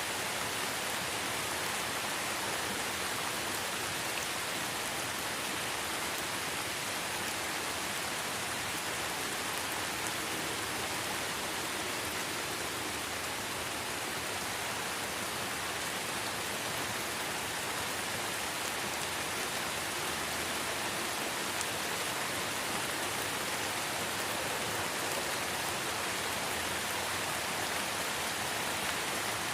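Steady light rain falling in a forest: an even hiss of rain with faint scattered drops pattering on surfaces.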